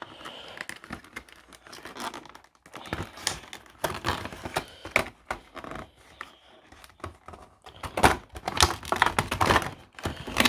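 Packaging of a diecast model airliner's box being wrestled open by hand: a run of short scrapes, rustles and clicks that grows busier and louder near the end.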